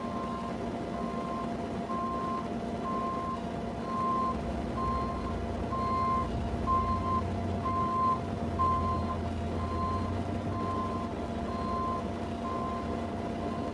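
A vehicle's reversing alarm beeping about once a second, steady and even, over a running engine's low rumble that grows louder for a few seconds in the middle.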